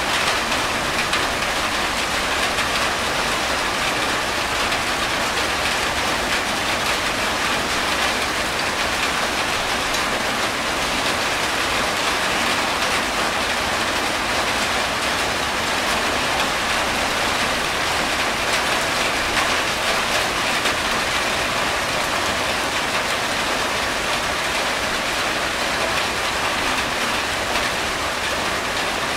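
Steady rain falling on a corrugated tin roof, an even, unbroken hiss of drops with water running off the roof edge.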